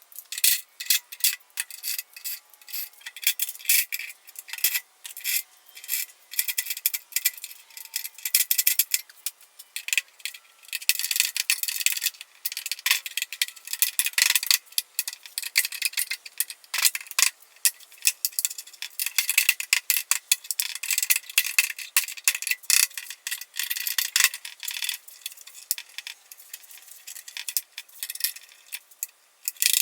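Hand tools working on a steel car door: irregular metallic clinks, taps and scraping.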